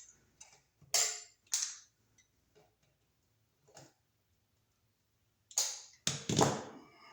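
Clicks and scrapes of hand tools and stiff copper ground wire being worked around the green ground screw of a new receptacle: a few short sharp clicks, then longer, louder scraping near the end.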